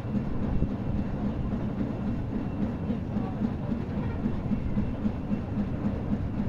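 Steam engines of the 1939 twin-screw steamer Nixe running, a steady low rhythmic beat from its three-cylinder compound engines.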